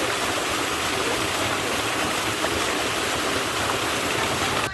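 Valley stream rushing: a steady, loud rush of water that cuts off suddenly at the end.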